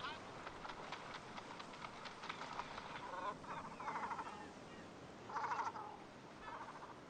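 Breeding colony of great cormorants calling: several birds give harsh, rattling croaks over one another, loudest about four and five and a half seconds in, with quick ticking calls earlier, over a steady hiss.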